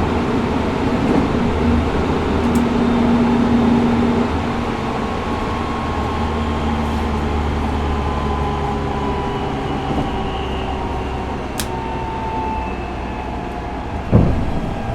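Tokyo Metro 05 series train with Mitsubishi IGBT VVVF inverter control, heard from inside the car while running between stations: a steady rumble of wheels on rail, with faint inverter and motor tones that slowly fall in pitch. There is a single loud thud about fourteen seconds in.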